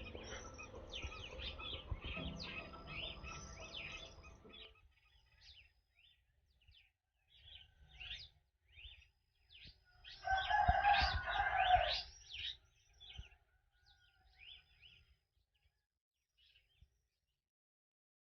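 Small birds chirping and twittering in a dawn chorus, with a rooster crowing loudly for about two seconds, about ten seconds in. A lower, steady pitched sound runs under the chirps for the first few seconds.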